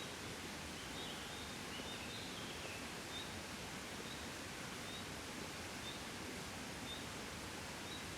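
Soft, gentle wind blowing as a steady, even rush. Faint short bird chirps repeat about once a second, with a brief twittering about two seconds in.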